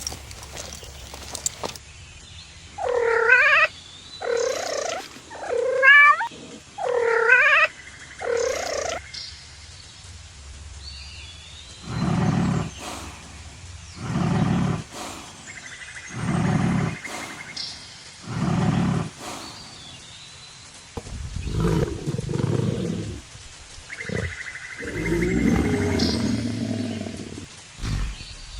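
A cat meowing five times in quick succession, each call wavering in pitch. This is followed by a run of deep, low calls, about one every two seconds.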